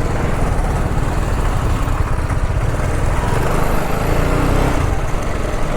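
TVS Apache RR 310's single-cylinder engine running steadily as the motorcycle rides along, its fast firing pulses under a steady rush of noise.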